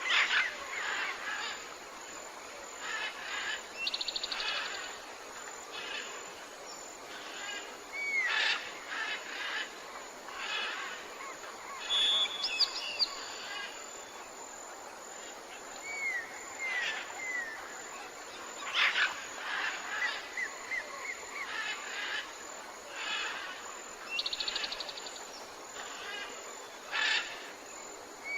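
Tropical forest birds calling, with many short chirps, brief rapid trills and small falling whistles every second or two over a steady background hiss.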